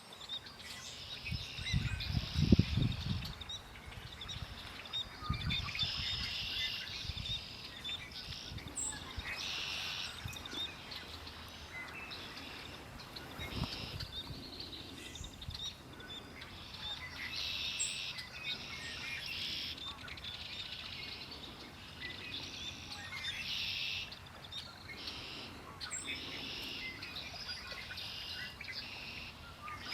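Songbirds singing outdoors, repeated bursts of high chirping and trilled phrases throughout. A low rumble comes and goes in the first three seconds or so.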